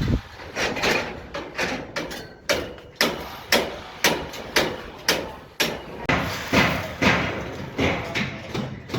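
Hammer blows struck in a steady rhythm, about two a second, each a sharp knock with a short ring.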